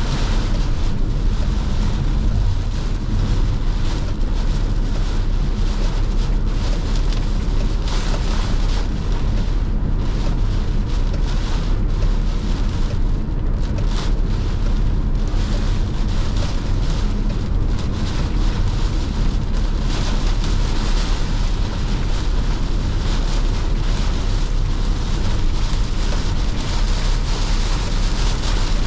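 A car being driven in heavy monsoon rain, heard from inside: a steady deep rumble of tyres on the wet road with rain and water spray on the body. A short sharp sound comes about halfway through.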